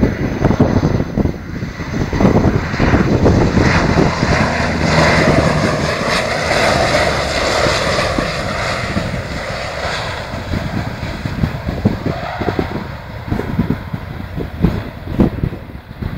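Antonov An-12's four turboprop engines with propellers as the plane comes in to land. The engine noise swells over the first few seconds and is loudest in the middle, then eases off in the later part.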